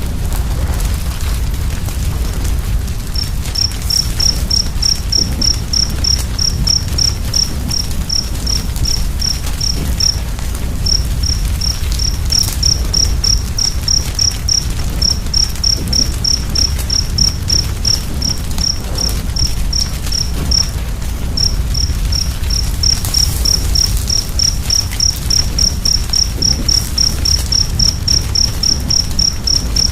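Fire burning with a low rumble and light crackles, and from about three seconds in a cricket chirping steadily at about three chirps a second, pausing briefly twice.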